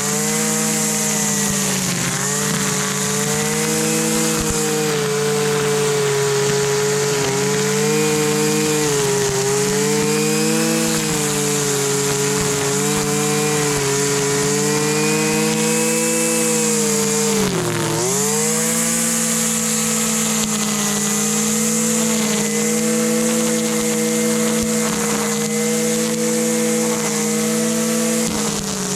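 Husqvarna 326LD string trimmer's small two-stroke engine running steadily, its pitch wavering a little. About two thirds of the way through it drops sharply in speed, then picks back up.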